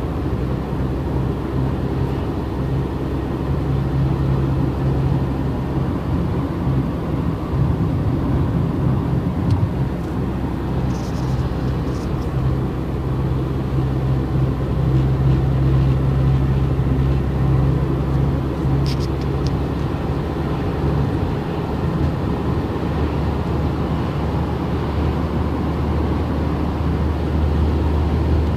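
Car engine and road noise while driving, a steady low hum; the engine note drops lower about two-thirds of the way through.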